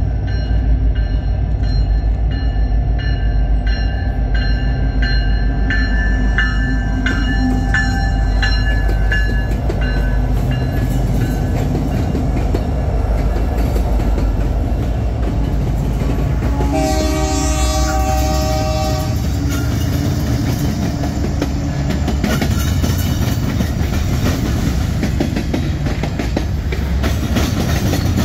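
Freight train with Kansas City Southern diesel locomotives passing close by: steady deep engine rumble and wheels clattering over the rails. A horn blast of about two seconds sounds a little past halfway. A repeated ringing note is heard in the first several seconds as the locomotives approach.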